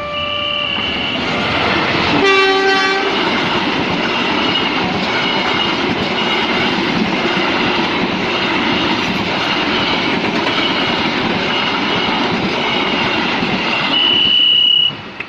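Train passing over a railway level crossing. Its horn sounds briefly at the start and again about two seconds in, followed by the steady rumble and clatter of wheels on the rails. A high steady tone stands out near the end, and the sound cuts off abruptly.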